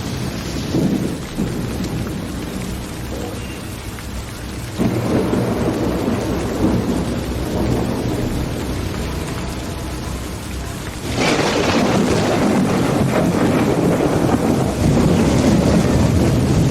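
Steady rain with thunder rumbling, part of a thunderstorm; the rumble swells about five seconds in and the whole storm grows sharply louder about eleven seconds in.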